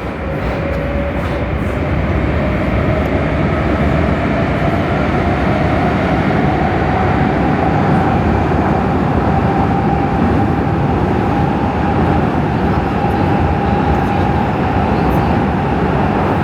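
Prague metro train in motion, heard from inside the carriage: a motor whine rises in pitch over the first several seconds as the train gathers speed, then holds steady over a continuous rumble of the running train.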